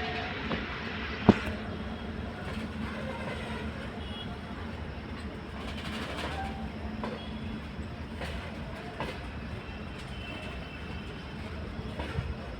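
Heavily loaded freight train of BCNA covered wagons rolling past, a steady rumble with wheel knocks over the rail joints and faint wheel squeal. One sharp, loud knock comes about a second in.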